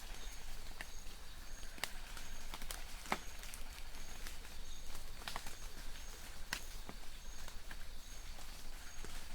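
Light rain falling in a forest: a steady hiss with scattered sharp drips. Behind it, a faint high chirp from a distant bird repeats at an even pace, about one every 0.7 s.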